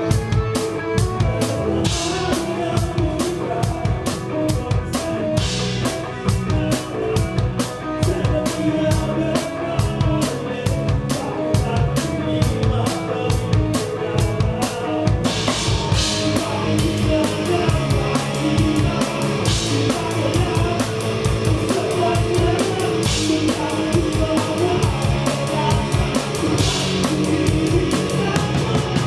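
Live band playing, with the drum kit loud and close: a steady fast beat of kick and snare, a cymbal crash every few seconds, and the cymbal pattern changing about halfway through.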